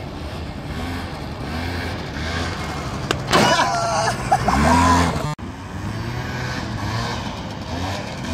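Scooter engine revving up and down in short repeated blips, about one a second, with a louder, higher-pitched burst near the middle that breaks off sharply about five seconds in.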